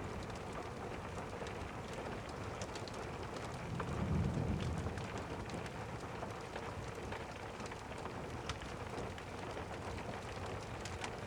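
Steady rain falling, with a soft low rumble of distant thunder swelling about four seconds in and fading again, and scattered faint crackles over the rain.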